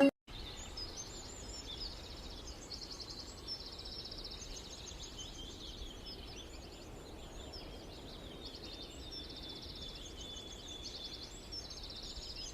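A small songbird singing: quick high trills and chirps, repeated in varied phrases with short gaps, over a steady outdoor background hiss.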